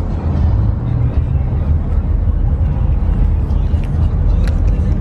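Pickup truck's engine and exhaust rumbling steadily at low speed.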